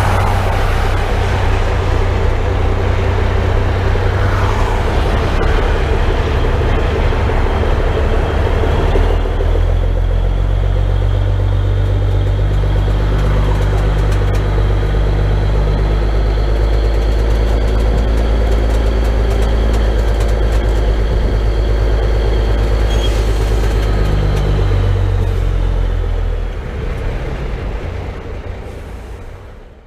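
Heavy truck diesel engine running on the road with a steady low drone. Its tone changes about nine seconds in, drops near the end and fades out.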